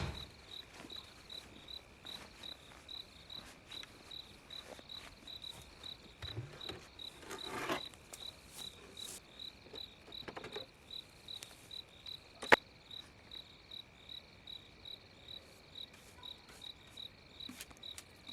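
Crickets chirping steadily at night, about two to three chirps a second, over a continuous high insect trill. A few soft rustles, and one sharp click about twelve seconds in.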